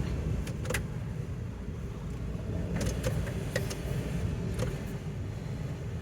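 Low, steady rumble of a long freight train rolling past, heard from inside a car, with a few sharp clicks about a second in and again around the middle.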